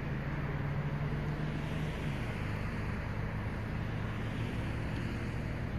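Vehicle engine running with a steady low hum, its pitch stepping down slightly about two seconds in.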